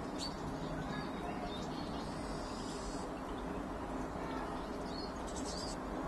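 Scattered short, high chirps of small garden birds over a steady low background noise, with a brief cluster of chirps near the end.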